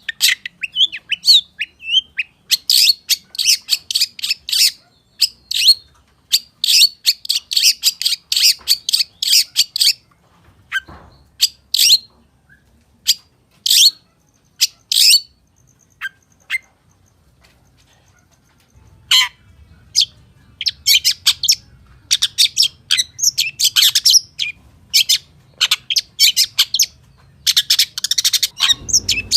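Long-tailed shrike (pentet/cendet) singing in full voice, a song packed with mimicked calls: dense runs of sharp, quick chirps and squawky notes. About a third of the way in it thins to scattered single calls, then picks up into rapid runs again.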